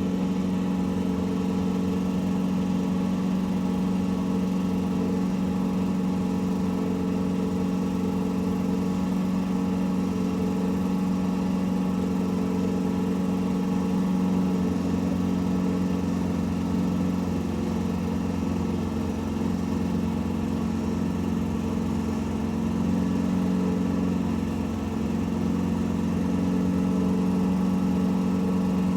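An engine or motor running steadily at an even speed, a constant low hum.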